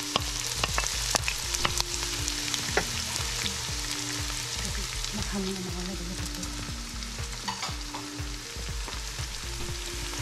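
Chopped onion and garlic sizzling in hot cooking oil in a nonstick wok while a wooden spatula stirs them, its scrapes and taps against the pan making short sharp clicks over a steady hiss.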